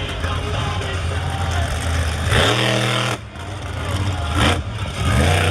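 Monster truck engine revving hard in repeated bursts, its pitch climbing with each burst and dropping back between them.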